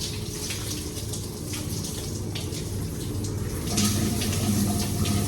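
Water spraying onto a truck being washed, a hissing spray over a steady low machine hum. The hum grows louder about two thirds of the way in.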